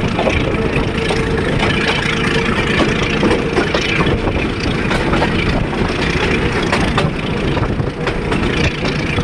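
Train running: a loud, steady rumble with scattered clicks, and a steady hum that fades about four seconds in.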